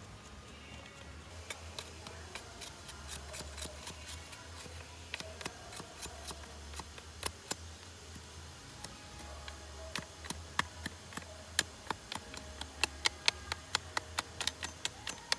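Sharp, irregular clicks from hand work on a homemade wooden slingshot, about two to four a second, coming faster and louder over the last few seconds, over a low steady hum.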